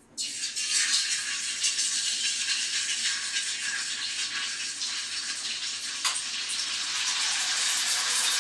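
Spaghetti nest deep-frying in hot oil: a steady, loud sizzle that starts suddenly as the nest goes into the oil.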